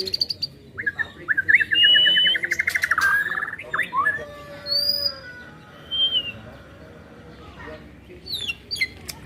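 Songbirds singing: clear whistled notes, a fast trill that starts about a second in and lasts nearly two seconds, and a run of quick descending chirps near the end.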